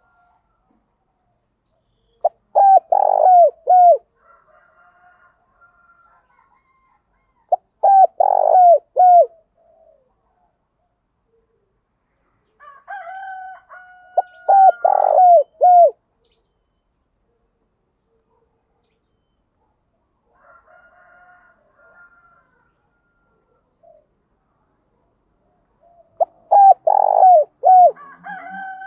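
Spotted dove cooing: four phrases of several short, falling coo notes, each phrase about a second and a half long and spaced several seconds apart. A rooster crows faintly in the background.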